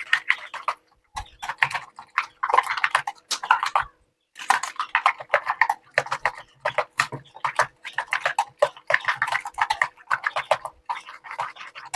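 Egg mixture with chopped onion, tomato and milk being beaten in a bowl: a utensil clicking rapidly against the bowl in runs, with a few short pauses.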